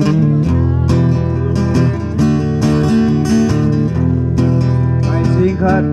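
Live blues band music led by strummed acoustic guitar, with a wavering melodic line entering near the end.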